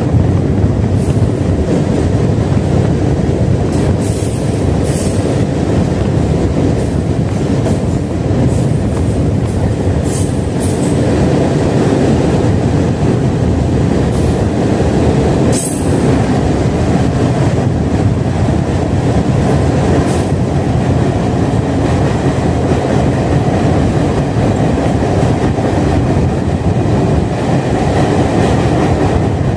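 Passenger train running, heard from on board: a steady, loud rumble of wheels on rails, with short, sharp high-pitched sounds every few seconds during the first twenty seconds or so.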